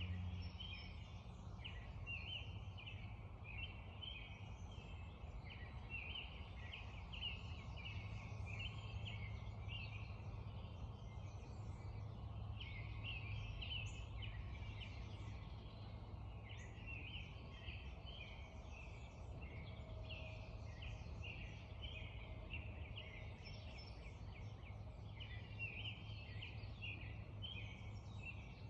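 Dense dawn chorus of many birds calling and singing at once, short overlapping notes in an unbroken stream, over a steady low rumble.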